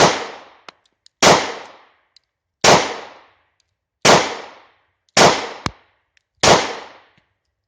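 German P.08 Luger 9mm pistol fired in slow, steady semi-automatic shots about a second and a quarter apart, each a sharp crack with a fading echo, seven in all with the last at the very end.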